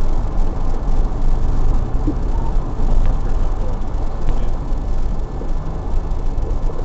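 Steady rumble and hiss of a motor vehicle, with low road and engine noise and no clear changes.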